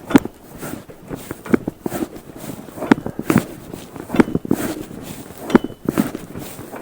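A series of sharp, irregular knocks and clicks, about one or two a second.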